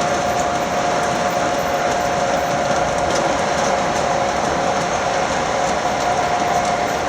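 O-gauge model train rolling steadily along the track: a continuous rolling rumble of wheels on rails with a steady whine through it and faint light clicks.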